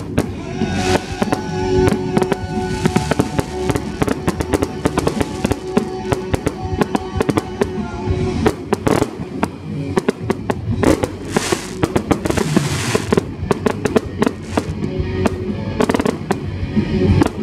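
Fireworks display: a dense, rapid run of shell bursts and crackles with no letup, over music with steady held notes.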